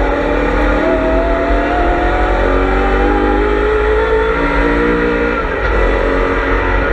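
BMW M3 E92's 4.0-litre V8 racing engine heard on board, pulling hard with its pitch climbing steadily for about four and a half seconds. Near the end the sound dips briefly, then the engine carries on.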